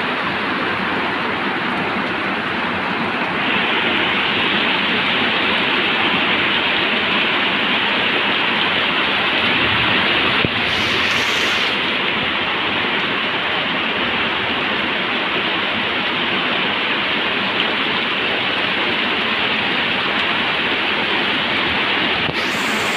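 Heavy rain falling steadily, a dense even hiss that grows a little louder about three seconds in.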